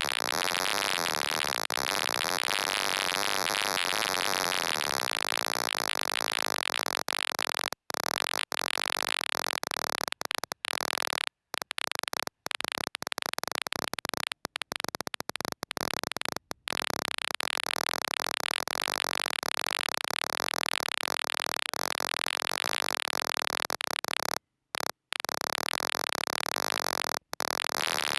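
Loud, dense static-like electronic hiss, strongest in the upper range, that cuts out abruptly to silence for brief moments several times.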